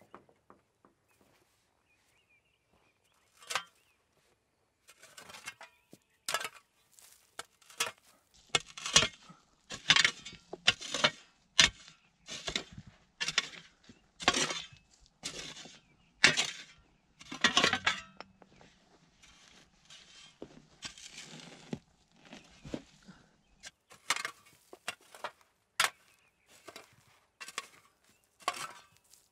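Irregular series of sharp clinks and scrapes, roughly one or two a second, with a longer rasping scrape in the middle.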